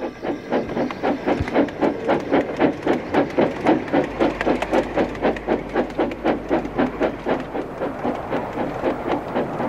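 Steam tram engine chuffing steadily as it runs along the line, an even beat of about four to five puffs a second.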